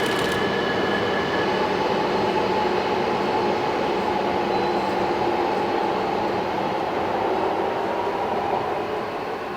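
Coupled E2 and E3 series Shinkansen pulling away under power: steady running noise with a traction-motor whine that rises slowly in pitch as the train accelerates, growing fainter near the end.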